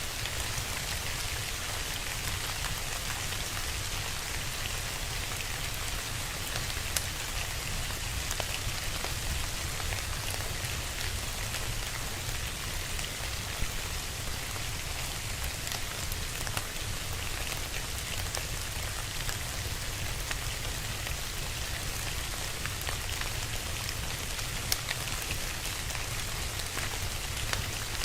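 Steady rain falling, with a few sharp pops from a crackling wood fire.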